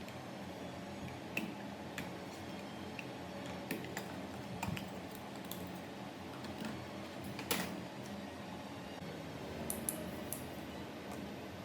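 Scattered light metallic clicks and clinks, small metal parts and tools being handled, over a low steady hum; one sharper clink comes a little past the middle.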